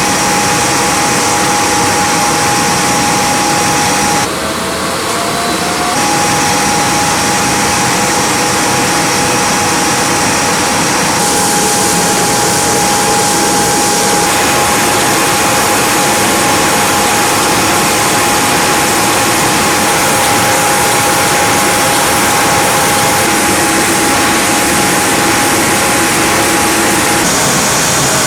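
Industrial wide-belt sanding machine running while it fine-sands continuous veneer: a steady loud rushing hiss and hum with a constant whine. A few seconds in the noise briefly dips and a tone slides upward, then the steady running resumes.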